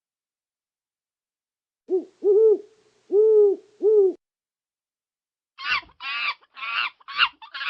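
Owl hooting: four low hoots in a little over two seconds. After a short pause come five short, harsh, higher-pitched calls from another animal.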